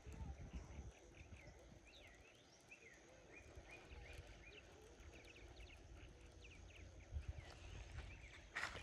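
Faint birds chirping: many short repeated calls with a few low rumbles underneath.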